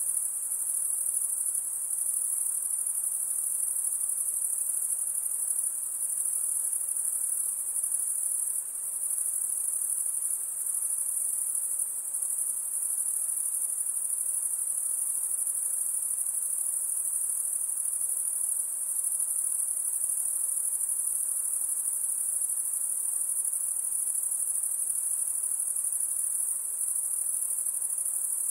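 A dense chorus of insects keeping up one continuous, high-pitched shrill trill without pause.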